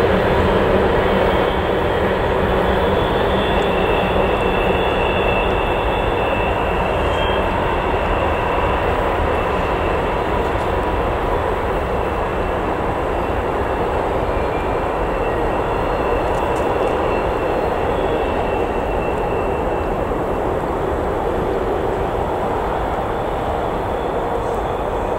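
Coal hopper cars of a freight train rolling away on a curve: a steady rumble and clatter of steel wheels on rail, slowly fading, with faint on-and-off high squealing from the wheels on the curve.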